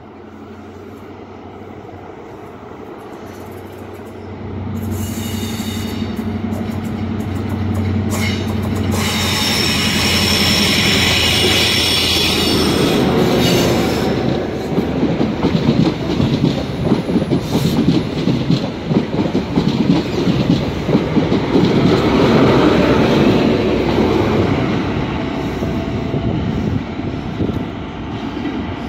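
A GWR Hitachi Intercity Express Train runs through the platform. A low hum and high whine rise as it approaches, then comes a fast rhythmic clatter of wheels over rail joints as the coaches pass, fading near the end.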